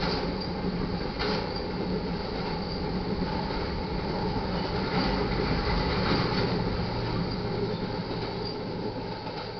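Railroad tank cars of a crude oil train rolling steadily past a grade crossing: a continuous rumble of wheels on rail with an occasional knock, fading near the end as the last cars go by.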